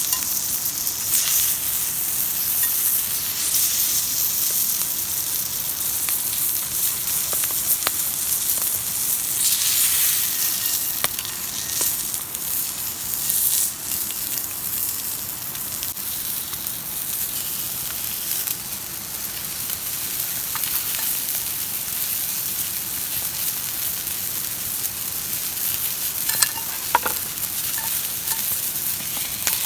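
Food sizzling and frying on an iron griddle plate, a steady spitting hiss with scattered sharp ticks, the loudest a few seconds before the end.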